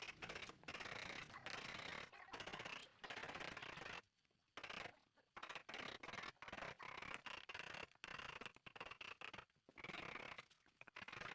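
Scraping, rasping strokes of a hand tool working wood, in short irregular bursts with a longer pause about four seconds in.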